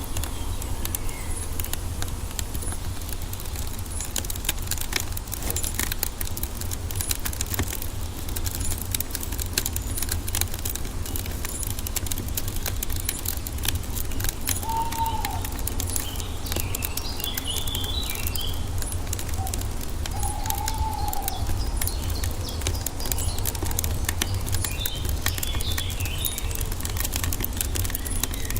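Wood fire crackling with many small irregular pops over a steady low rumble, while birds chirp and call a few times around the middle and again near the end.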